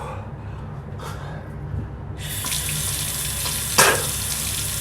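Water running from a tap, turned on suddenly about two seconds in and running steadily, with a single short knock about four seconds in.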